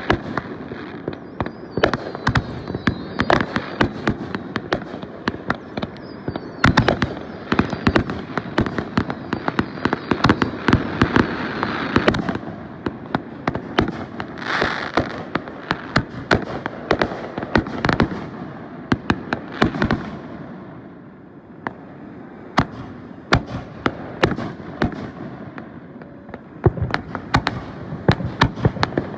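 Fireworks going off: a dense run of sharp bangs and crackling, thinning after about twelve seconds into scattered single bangs, with a brief hissing burst midway.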